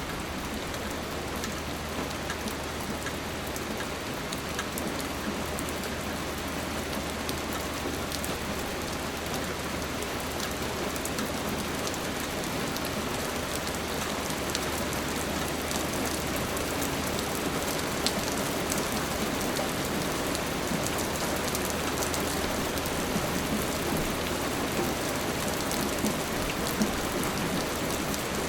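Steady rain falling on a surface, with scattered individual drops ticking and a few louder drops near the end.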